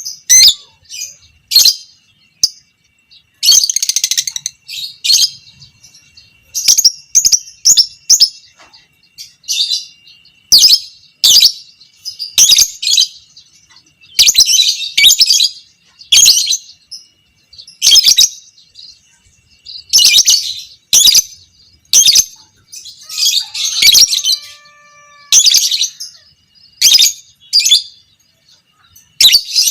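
Lovebird singing its 'ngekek' chatter: repeated bursts of shrill, high-pitched chattering trills, roughly one a second, several running on for a second or more.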